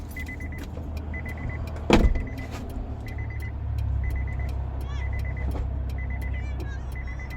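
A car's warning chime repeating, a short run of rapid beeps about once a second, over an idling engine whose hum grows louder partway through. A single loud thump about two seconds in.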